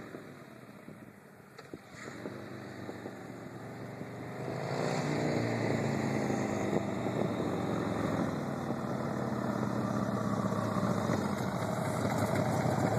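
Harley-Davidson Sportster 1200 V-twin through slip-on exhaust pipes, faint at first, then much louder from about four and a half seconds in as the engine note bends in pitch, and running loud to the end.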